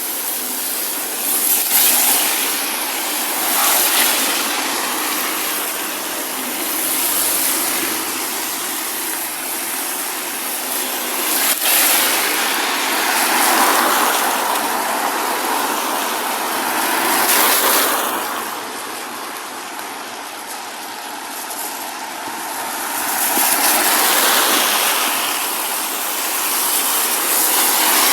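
Cars passing one after another on a wet road, their tyre hiss swelling and fading every few seconds, over a steady wash of rain.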